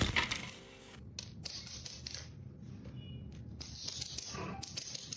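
Irregular run of light clicks and taps, many in quick succession.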